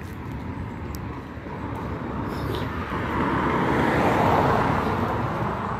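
A road vehicle passing close by: its tyre and engine rush swells to a peak about four seconds in, then fades away.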